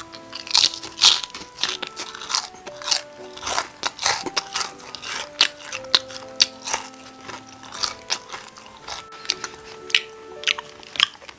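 Crunchy bites and chewing of Korean market-style fried chicken, a sharp crackling crunch about once or twice a second, over soft background music.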